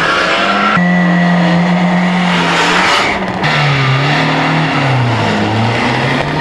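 Rally car engines revving. The pitch is held steady for about two seconds, then rises and falls. The sound changes abruptly about a second in and again about three seconds in.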